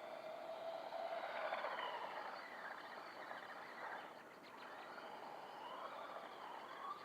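Small electric motor and gears of a 1/18-scale RC monster truck whining faintly, the pitch rising and falling several times as it speeds up and slows down.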